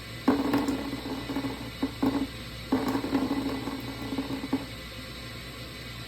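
A small mechanical tool running in two bursts of about a second and a half each, with a short burst between them and some clicking.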